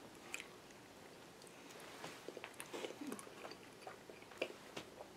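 A person biting into and chewing a three-cheese chicken quesadilla with her mouth closed: faint, scattered wet mouth sounds and small clicks.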